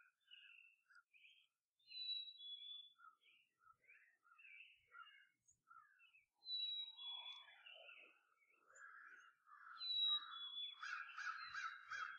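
Birds singing and calling: many short chirps and whistled notes. A phrase that opens with a high thin whistle comes back about every four seconds, and a quick run of repeated notes comes near the end.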